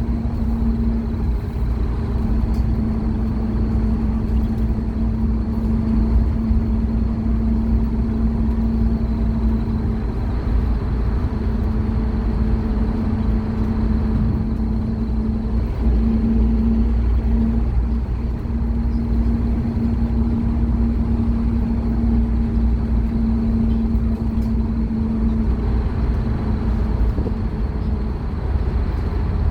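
Scania K230UB Omnilink bus's diesel engine running steadily under way, heard from inside the bus as a continuous low rumble with a steady droning note.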